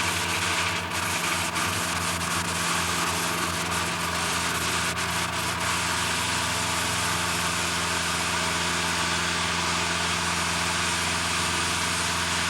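Heavy machinery running steadily at an idle: an engine-like hum over a broad hiss, with a few faint clicks in the first half.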